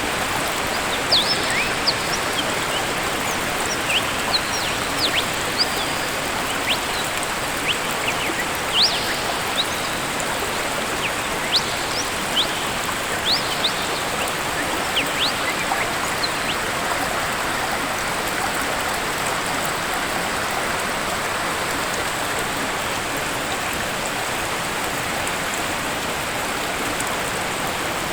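Waterfall water rushing steadily, with small birds chirping in short, high calls over it during roughly the first half; the chirps die away after that.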